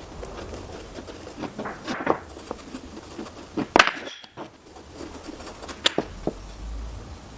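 Wooden pieces being handled and set down: scattered light knocks and clicks, with two sharper knocks near the middle and about six seconds in.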